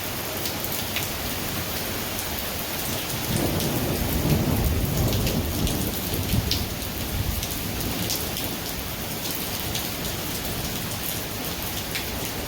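Heavy rain falling steadily, with single drops ticking close by, and a roll of thunder that swells into a low rumble about three seconds in and dies away over the next few seconds.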